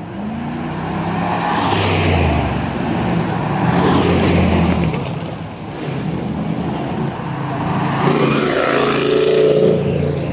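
American cars' engines running as cars drive past, the sound swelling and fading about three times.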